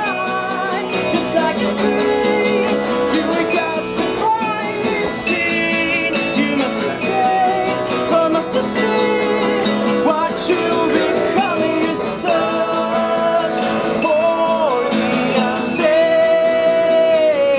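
A band playing live, with guitar and a lead melody that slides between held notes over the accompaniment, in a passage without sung words.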